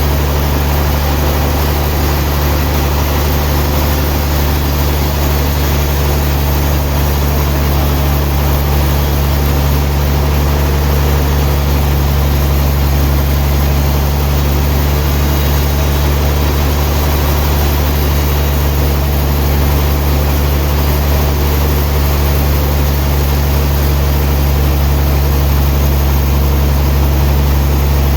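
Sawmill machinery running steadily: a constant loud, low engine-like hum under an even mechanical noise, with no change in pace.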